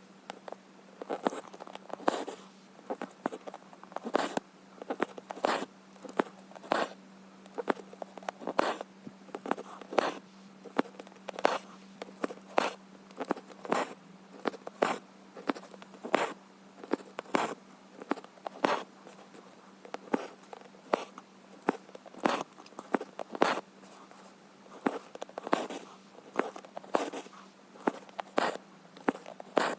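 Needle and thread being drawn through cross-stitch fabric: a short, sharp rasp with each pull, repeating irregularly about once or twice a second. A faint steady low hum sits underneath.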